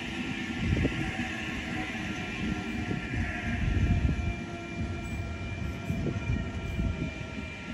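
A train running past on the rails: a continuous wheel rumble with rapid clattering knocks, and a few steady high-pitched tones held above it.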